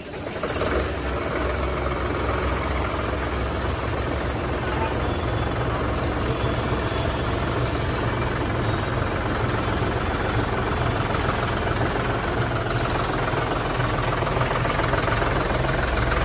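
A 4x4 tractor's diesel engine coming up right at the start, then running steadily with a deep, even throb for a test run.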